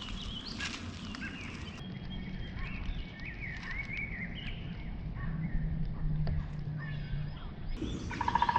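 Birds calling outdoors, with short chirps in the middle. About 8 seconds in, a woodpecker's fast rattling call starts.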